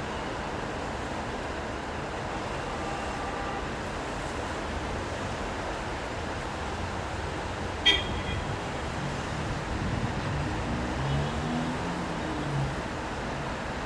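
City street traffic with a steady hiss of passing vehicles. A single sharp knock about eight seconds in, then a low engine note rising and falling over the last few seconds as a vehicle goes by.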